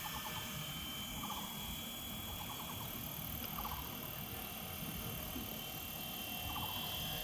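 Radio-controlled EC-135 scale helicopter hovering low, its rotors and motor giving a steady high whine; freshly tuned, it holds a stable hover. A short rattling call repeats about once a second behind it.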